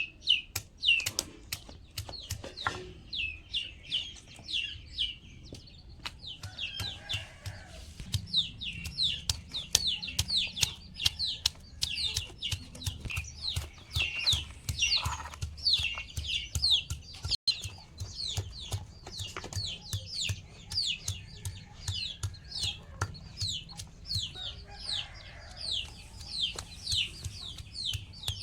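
Small birds chirping: a continuous run of short, high, falling chirps, several each second and overlapping, with scattered clicks.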